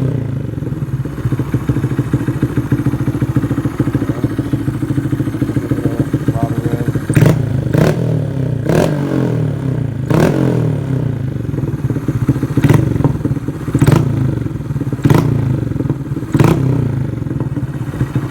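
2019 Honda Grom's 125 cc single-cylinder engine with a Vance and Hines full exhaust, idling with a deep, burbly note for about seven seconds, then blipped in about eight short low-RPM throttle revs. Each rev ends in sharp pops and crackles from the exhaust.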